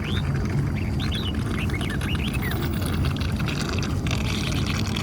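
Small birds chirping and whistling in short calls over a steady low rumble.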